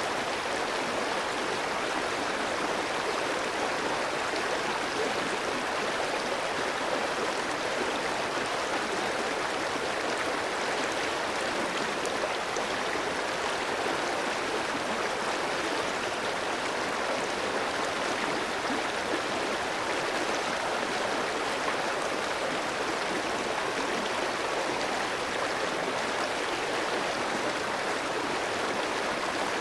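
Clear mountain stream flowing over rocks: a steady, even rush and babble of water.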